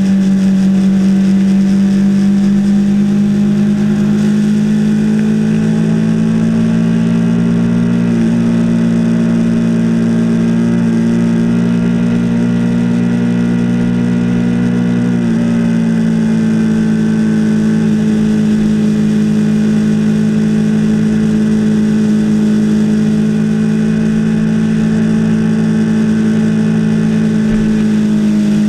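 2016 Yamaha R3's parallel-twin engine running at a steady cruise, heard close up from the handlebars. Its pitch creeps up slightly over the first several seconds, then eases a little about halfway through as the throttle settles.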